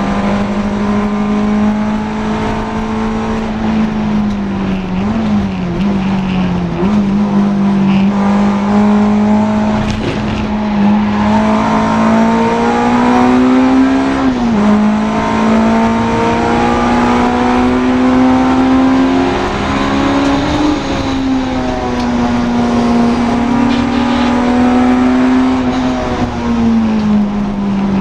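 Honda Integra DC2 race car's engine running hard at high revs. Its steady note climbs slowly and drops briefly a few times, with quick dips early on, another about halfway, and one near the end.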